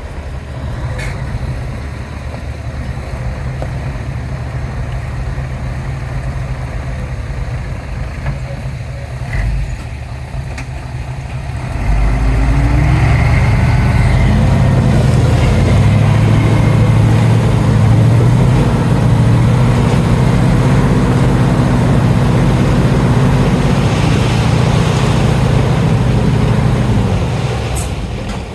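Heavy diesel engine of construction machinery idling, then revving up about twelve seconds in and running hard under load for about fifteen seconds before easing off near the end.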